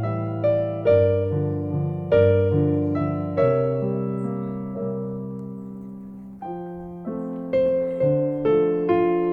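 Background piano music: struck notes and chords that ring and fade, with one chord held and dying away for about three seconds in the middle.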